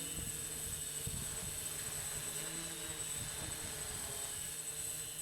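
Hexacopter drone on a Tarot T960 frame, with T-Motor motors and 14-inch props, hovering: its propellers give a steady hum of several tones that waver slightly, over gusty wind rumbling on the microphone.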